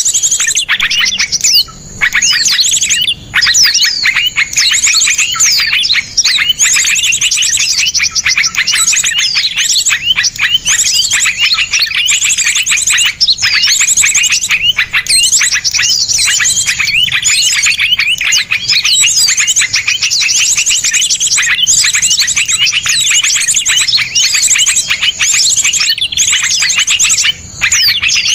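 Small songbirds calling in a dense, unbroken stream of fast, harsh, closely packed chirps, rapid trills and quick up-and-down whistles, with a few very short breaks.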